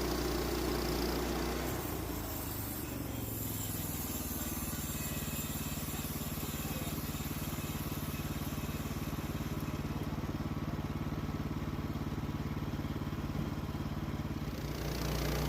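Sawmill engine running steadily, its note changing about two seconds in and changing back near the end.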